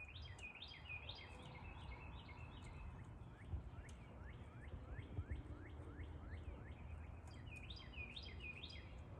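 A songbird singing: a quick, jumbled phrase of high notes, then a run of short down-slurred notes, and another jumbled phrase near the end, over a steady low rumble.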